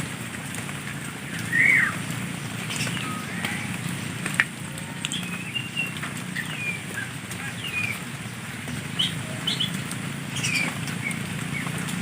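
Wild birds chirping and whistling in short, scattered notes, some sliding up or down in pitch, the loudest an arched whistle near the start, over a low steady hum. A single sharp click about four seconds in.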